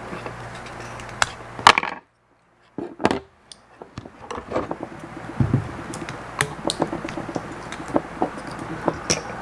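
Small clicks, taps and knocks of tools and plastic parts being handled while an OMRON H7CN counter is taken apart, over a low steady hum. The loudest knock comes about a second and a half in. The sound cuts out completely for under a second just after that.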